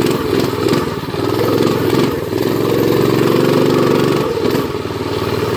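Predator 212cc single-cylinder four-stroke engine of a Doodlebug minibike running under throttle while riding, its revs rising and falling and held steady for a second or two midway.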